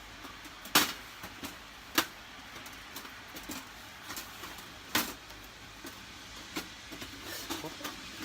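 Metal parts of a Shows Takibi-no-Hako Easy Neo folding wood stove clicking and knocking together as it is assembled: three sharp clinks, about a second in, two seconds in and near the middle, with lighter taps and handling noise between.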